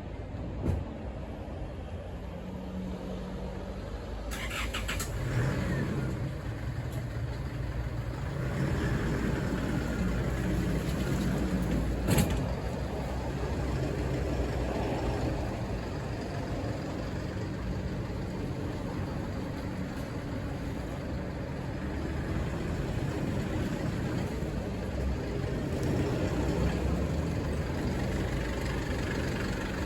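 Truck engine and road noise heard from inside the cab while driving, the engine note shifting up and down with speed. One sharp knock about twelve seconds in.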